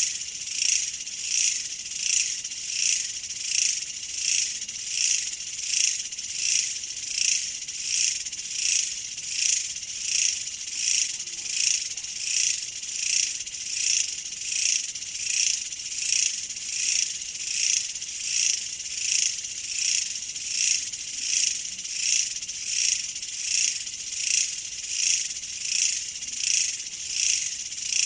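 Insects chirring in a high-pitched, steady rhythm of about one and a half pulses a second.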